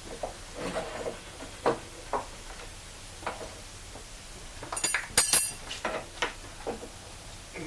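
Scattered light knocks and metal clinks of hand tools against bolts and fittings while the outboard motor is being bolted onto its mount, with a brighter cluster of sharp clinks about five seconds in.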